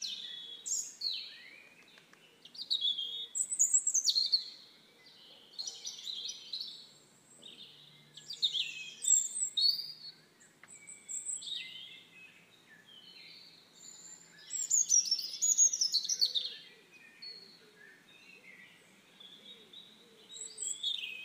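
Small birds chirping and singing in bursts of quick, high, sweeping notes every second or two.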